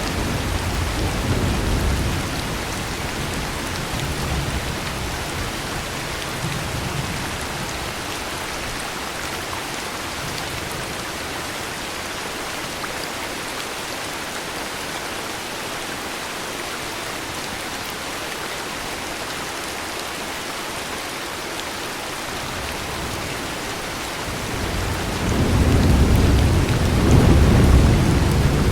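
Heavy rain falling steadily, with low rolling thunder that fades out in the first couple of seconds and rumbles in again, louder, near the end.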